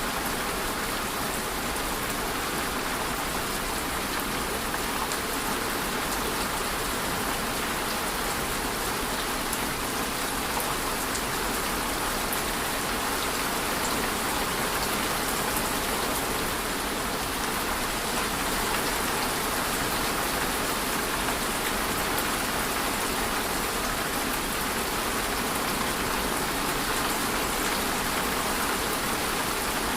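Steady rain falling, a dense even hiss with scattered drops hitting a surface.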